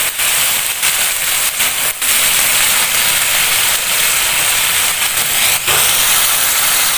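Chicken livers and onions sizzling steadily in hot oil in a wok as the pan juices cook down, with a metal spatula stirring them.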